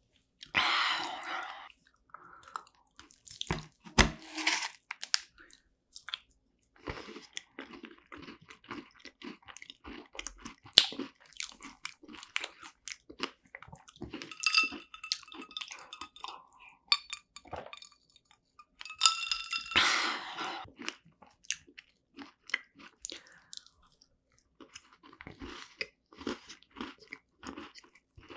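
Close-miked chewing of strawberry rare cheese tart: many short, wet, crunchy mouth sounds, with a longer, louder burst about a second in and again around twenty seconds.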